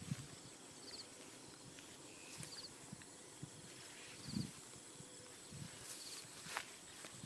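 Faint outdoor ambience: a short high chirp repeats about every second and a half, with scattered soft low thumps and a few light clicks.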